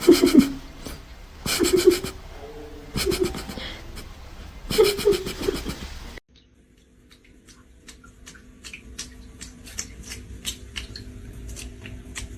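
A person laughing in four bursts about a second and a half apart. About six seconds in it cuts off suddenly to a much quieter stretch of faint, irregular clicks.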